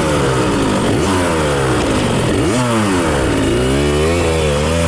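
Dirt bike engines revving on a motocross track. The pitch climbs and drops again and again with throttle and gear changes, and more than one bike is heard at times.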